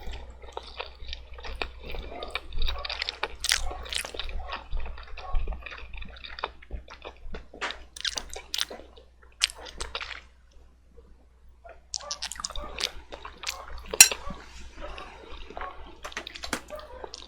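Wet, squishy sounds of saucy black bean noodles (jajangmyeon) being eaten, with irregular small clicks of utensils against the bowl and one sharp click a little after the middle.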